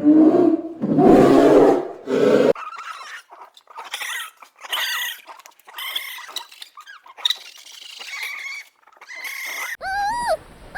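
Farm animal calls: three loud, rough, low calls over the first two and a half seconds, then a run of quieter, higher pitched calls, and a louder pitched call near the end.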